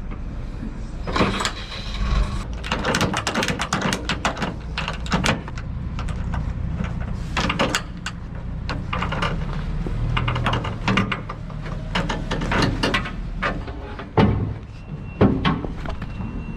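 A lorry's diesel engine running with a steady low rumble under a string of short knocks, clatters and rattles.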